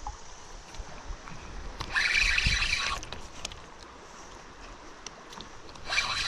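Water splashing beside a kayak as a hooked Alabama bass is fought to the boat, in two splashy bursts: one about two seconds in lasting about a second, and a shorter one near the end.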